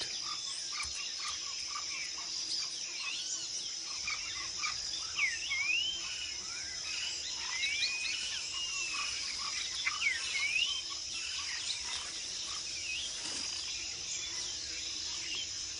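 Jungle ambience: a steady high chorus of insects with many short bird chirps and whistles over it, busiest in the middle.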